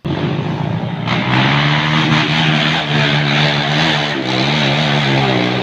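Engine running steadily at a fast idle while being warmed up, its pitch wavering slightly now and then. It cuts in suddenly at full loudness.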